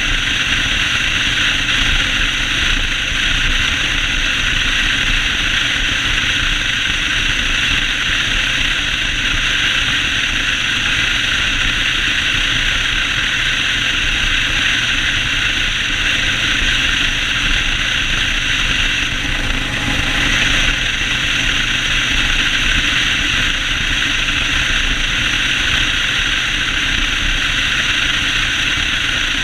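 Yamaha Road Star 1600 V-twin motorcycle running steadily while riding, with a constant rush of wind and road noise.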